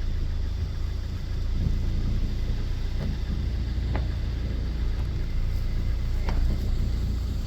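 Steady low rumble of a vehicle engine idling, with a couple of faint ticks.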